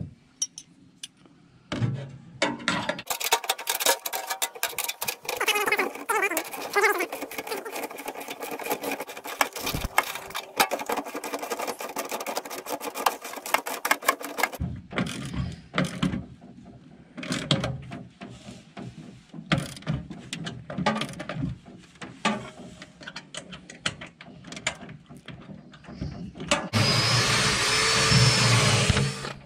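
Tools tightening the bolts that hold a pod to the boat: stretches of rapid clicking and rattling broken by short pauses. Near the end comes a steady, louder whirring noise lasting about three seconds.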